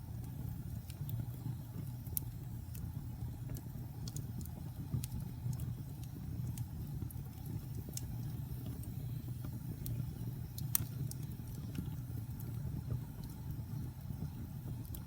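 Wood fire burning in a fireplace: a steady low rumble with scattered sharp crackles and pops, a few louder ones standing out.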